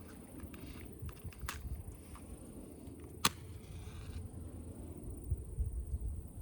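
A few short clicks or snaps over a low rumble and a steady high hiss, with one sharp click about three seconds in that is the loudest sound.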